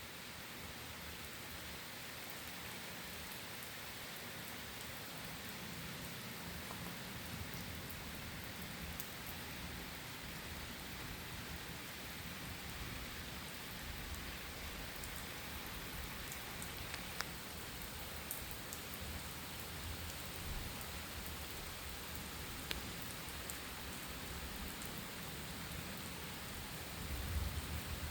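Steady rain falling during a thunderstorm, with scattered drops ticking sharply. A low rumble of thunder swells near the end.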